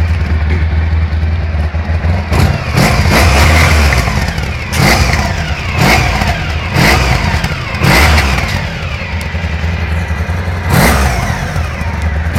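Honda Pan-European motorcycle's V4 engine idling and revved in several short throttle blips, each falling back to idle, with a quieter stretch near the end before a last blip.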